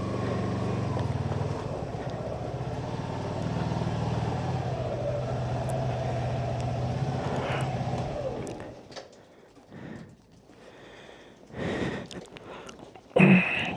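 Suzuki V-Strom SX 250's single-cylinder engine idling steadily, then switched off about eight and a half seconds in. It is followed by quiet and two short noises near the end.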